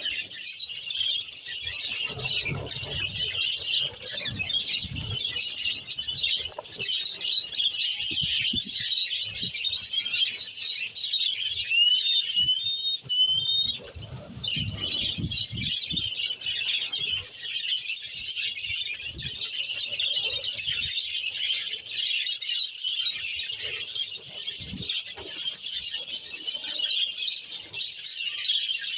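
A flock of budgies chattering and warbling without a break, with a few clear rising whistles about twelve seconds in. Scattered soft low thumps sound under the chatter.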